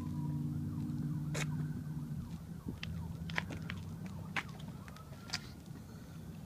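A distant wailing siren slowly rising and falling in pitch, over a low engine hum that drops away about two seconds in, with a few sharp clicks.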